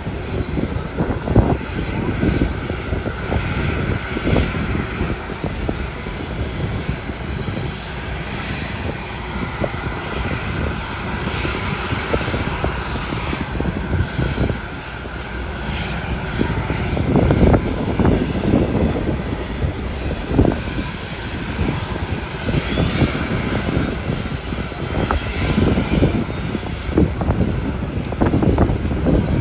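JMSDF SH-60K helicopter's twin turboshaft engines and rotor running, a continuous whine and roar with a fluttering low end that swells louder at times.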